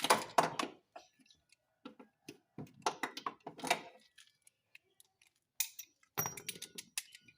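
Irregular metallic clinks, clicks and short rattles of hand tools working on a car's engine mount, in bursts at the start, midway and near the end.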